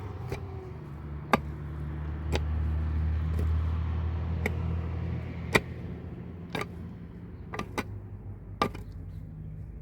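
A motor running with a steady low hum, under sharp knocks at uneven intervals, about eight of them.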